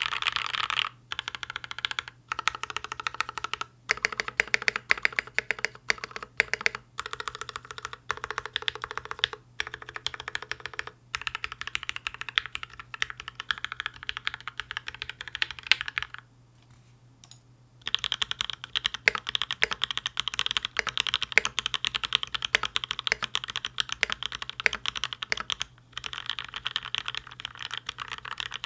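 Fast typing on a mechanical keyboard fitted with PBT Cherry-profile keycaps: a dense run of key clacks with short breaks. It stops for about a second and a half a little past the middle, then carries on.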